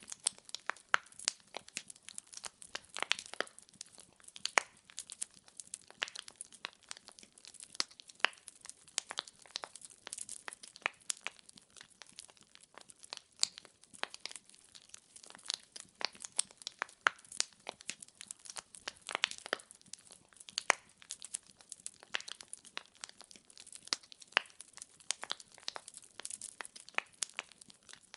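Burning firewood crackling: a continuous run of sharp pops and snaps, several a second and uneven in loudness, with no low roar of flame beneath.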